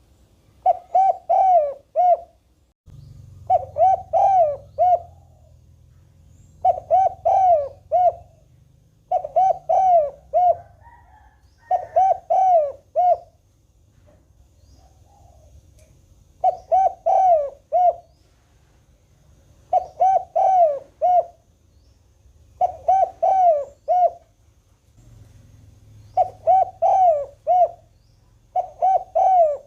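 Spotted dove cooing: a short phrase of four or five quick coos, repeated about every three seconds, about ten times in a row.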